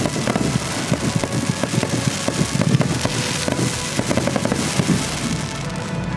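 Fireworks show going off as a dense, continuous stream of pops, bangs and crackles, with music playing along with it.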